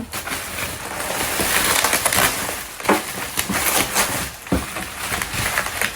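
Packaging being torn open and handled: a steady crackling rustle broken by a few sharp knocks, the clearest about three and four and a half seconds in.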